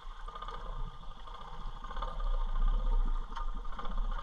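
Small motorbike engine running steadily while being ridden, with a few light clatters.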